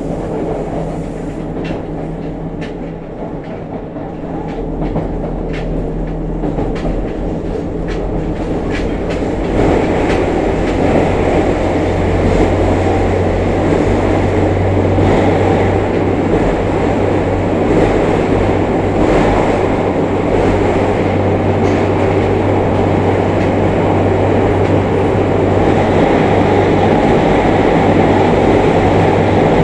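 Running noise of a JR Kyushu 303 series electric train, heard from the floor above a powered bogie of motor car MoHa 303-1: wheels clicking over the rails, then a louder, steady growl with vibration that builds from about ten seconds in. This motor-area growl is the abnormal noise that marks this car as a fault car.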